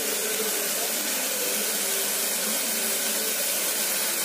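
Onion and tomato masala frying in oil in an aluminium pressure cooker, giving a steady, even sizzle.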